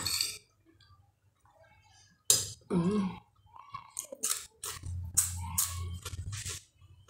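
A person chewing a mouthful of food close to the microphone: after a short hum, a run of sharp crunches and wet mouth clicks.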